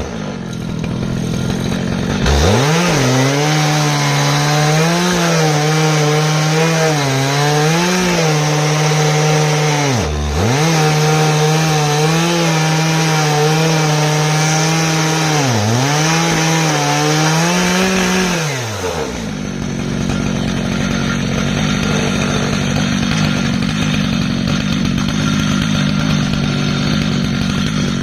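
Stihl MS 881 two-stroke chainsaw running at high revs as it rips through an ash log on an Alaskan chainsaw mill. The engine pitch sags briefly and recovers three times, and about nineteen seconds in the note drops to a lower, rougher sound for the rest.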